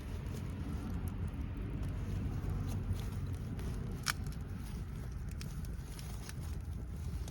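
Wood fire crackling, with scattered sharp pops, the loudest about four seconds in, over a steady low rumble.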